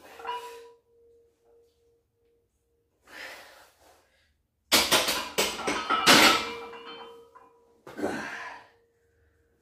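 Weight-room sounds of a heavy bench-press set: a loaded barbell knocking and clanking against the rack, with hard breaths of the lift, the loudest clanks about five to six seconds in.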